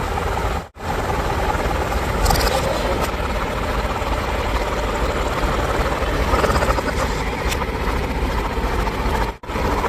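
Heavy diesel earthmoving machinery running steadily with a low rumble and a few short knocks or rattles. The sound drops out abruptly twice, about a second in and near the end.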